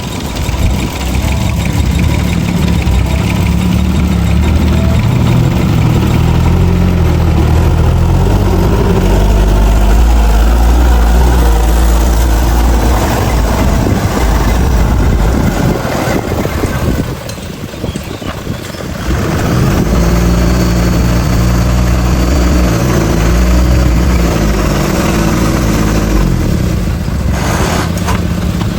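Heavy diesel engine of earthmoving machinery running under changing load, its note rising and falling. It eases off for a couple of seconds a little past the middle.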